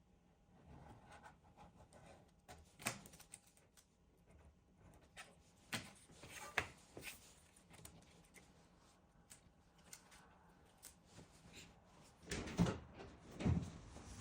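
Scattered light clicks and knocks of parts and tools being handled on a workbench, with a few louder, deeper thumps near the end.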